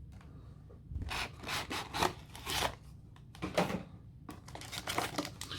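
Cardboard and paper rubbing and scraping as the contents of a Pokémon Elite Trainer Box are slid out and handled: a series of short strokes, about six in a few seconds.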